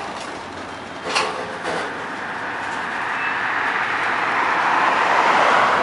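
Freight train of covered hopper cars rolling past close by: two sharp clanks from the wheels about a second in, then a steady rolling rush that grows louder toward the end.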